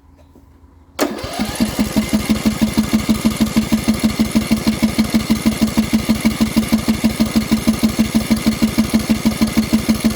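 Poulan Pro lawn mower engine turned over on its electric starter, starting about a second in with an even, rapid chug of about five or six beats a second, without catching and running despite a shot of starting fluid.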